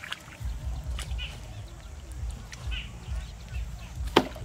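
Outdoor ambience of short bird calls every second or two over a low, uneven rumble, with one sharp click just before the end.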